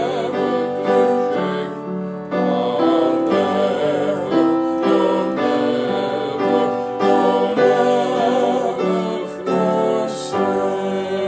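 Piano music with sustained, slowly changing chords in a gentle gospel style, with some singing.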